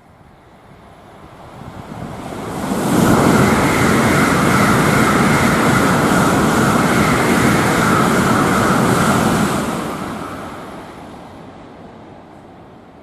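Tokaido Shinkansen bullet train passing through a station at high speed without stopping: a rush of noise that builds over about three seconds, holds loud for about six seconds, then fades away.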